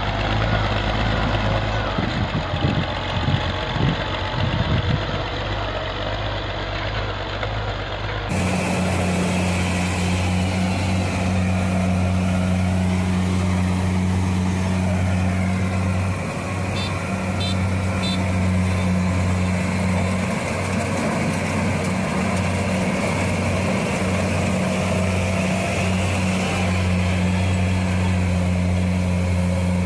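Walking tractor engines running steadily. About eight seconds in the sound switches abruptly to another engine with a steady low hum.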